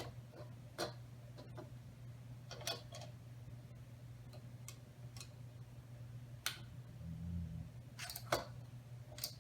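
Scattered light clicks and clacks of plastic Lego pieces being handled and fitted together, about a dozen spread out, with a closer pair a little after eight seconds in.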